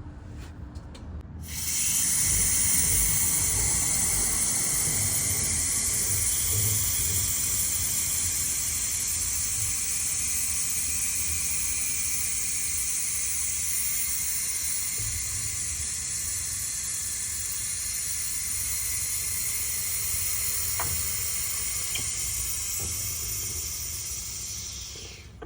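A loud, steady hiss that starts suddenly about a second and a half in, holds, and fades off near the end, with a low rumble underneath.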